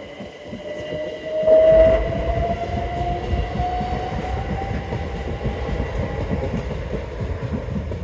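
A train passing close by: its rumble and wheel clatter come in loudly about a second and a half in, with a whine that rises slowly in pitch as the train gathers speed.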